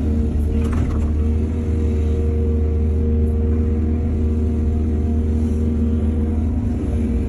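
Heavy construction machine's diesel engine running steadily with a low rumble. A brief rush of noise sounds about a second in.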